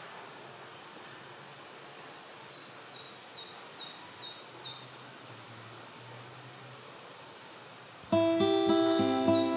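A songbird sings one phrase of about eight quick, high, down-slurred notes in a row, over a faint steady outdoor background. About a second and a half before the end, plucked acoustic-guitar music starts suddenly and is the loudest sound.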